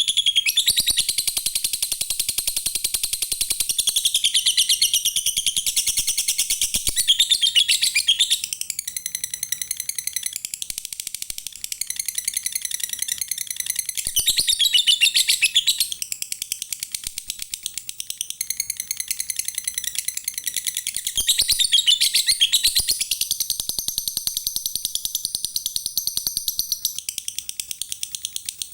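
Lovebird giving its 'ngekek': a long, unbroken, very rapid high-pitched chattering trill that swells and eases in loudness several times.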